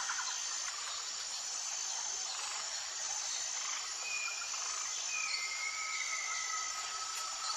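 Insects, crickets by the tags, trilling steadily in a high pitch, in long pulses. A few short whistled calls come in near the middle.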